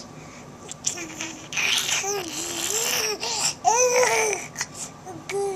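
Baby babbling: a string of short, high-pitched vocal sounds with rising and falling pitch, some of them breathy.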